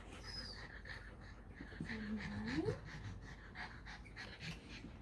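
Dog panting faintly, with a short rising vocal sound about two and a half seconds in.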